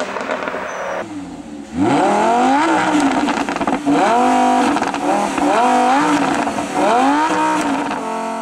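Lamborghini Huracán LP610-4's V10 engine pulling hard. About two seconds in, the pitch climbs steeply, then rises and drops sharply again several times, as in quick gearshifts under acceleration.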